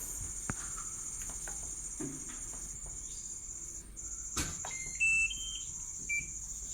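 Short electronic beeps stepping in pitch about five seconds in, and one more a second later, typical of an LG fully automatic washing machine's control panel as its buttons are pressed. A click comes just before them. Crickets chirr steadily behind.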